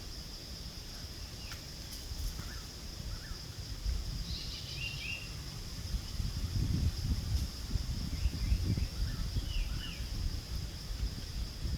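Outdoor ambience: a steady high insect drone, a few short chirping animal calls about four seconds in and again near the end, and wind rumbling on the microphone.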